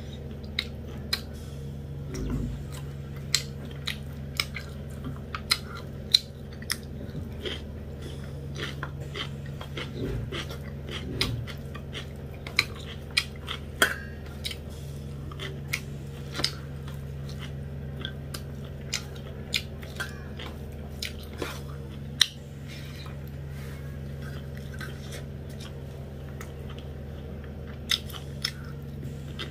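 Close-miked chewing and lip-smacking of a person eating rice and dried buffalo meat (sukuti) curry by hand, with many short sharp mouth clicks. A steady low hum runs underneath.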